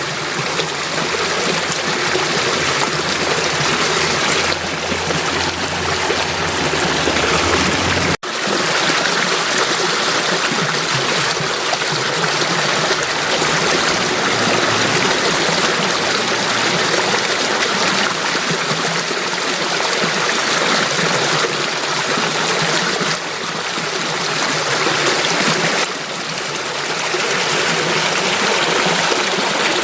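Running water of a stream flowing steadily, with a momentary break about eight seconds in.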